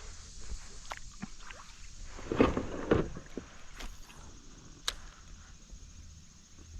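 Handling noise aboard a kayak: scattered small clicks and knocks, with two louder bumps in the middle, over a faint steady low hum.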